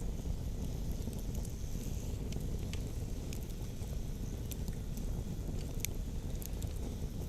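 Campfire crackling, with sharp pops scattered irregularly over a steady low rumble.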